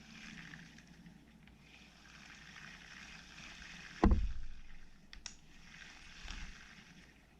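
Abu Garcia SX10 spinning reel being cranked by hand, a soft whir from its gears and rotor, running without the strange noise it had before the repair. A loud knock about four seconds in, a couple of clicks a second later and a smaller knock after that.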